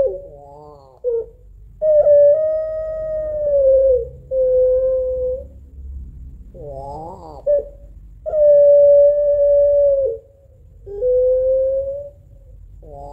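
Female puter pelung, a domestic collared dove, giving its long crying call to summon a male. Twice, a short wavering note is followed by two long, steady, slightly falling notes.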